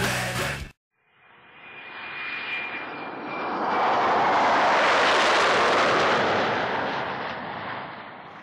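Aircraft flyby sound effect: a rushing noise with a faint high whine that swells up after a short silence, peaks in the middle and fades away. Heavy rock music cuts off just before it.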